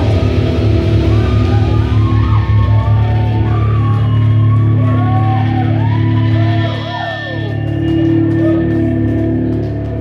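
Live heavy rock band with distorted guitars and bass holding a long ringing chord, with high notes gliding up and down over it, as the song closes.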